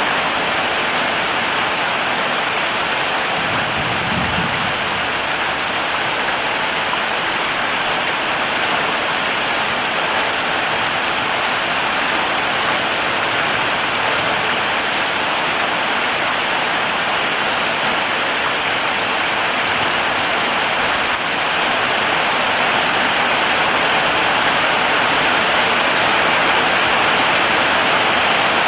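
Heavy rain falling steadily, a dense even hiss of drops, with a brief low rumble about four seconds in.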